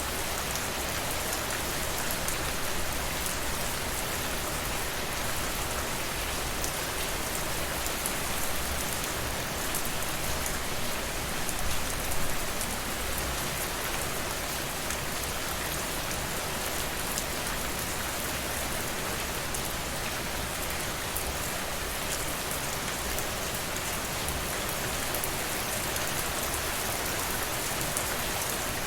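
Steady rain falling on a surface, an even hiss of many drops with fine individual patters, swelling briefly about twelve seconds in.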